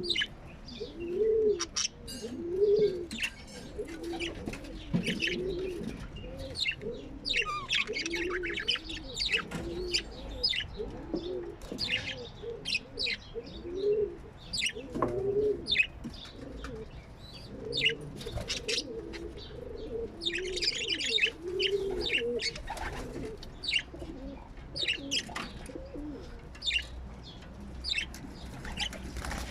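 Birds calling: a low cooing note repeated about once a second throughout, with quick high chirps and tweets over it.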